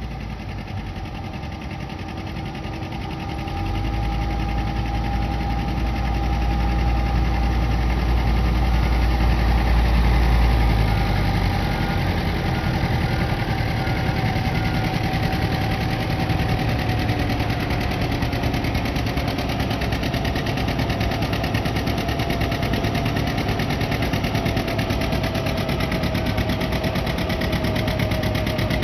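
A 1956 John Deere 80's two-cylinder diesel engine pulling hard under load. It runs steadily with a heavy low rumble that is strongest in the first third, while a thin whine slowly falls in pitch.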